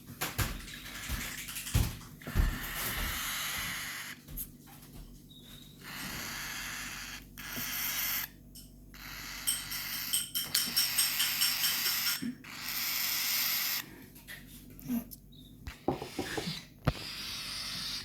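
Nestling baby birds begging: repeated bouts of high, hissing cheeps broken by short pauses. A couple of low knocks about two seconds in.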